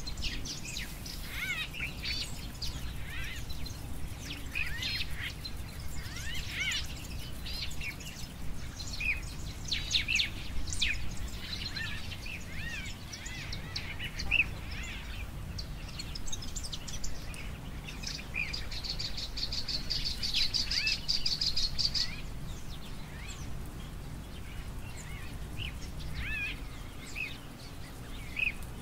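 Several wild birds calling with many short, gliding chirps, and a fast high trill lasting a few seconds about two-thirds of the way through, over a steady low rumble.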